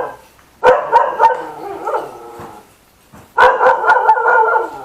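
A dog barking in two bursts of several quick barks, the first about half a second in and the second about three and a half seconds in.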